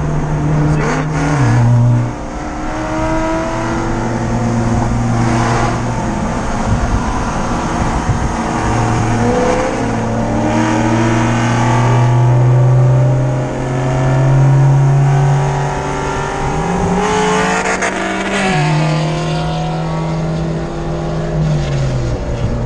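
Car engine heard from inside the cabin at highway speed, its steady drone stepping down in pitch a few times and climbing under acceleration near the end, over wind and road noise.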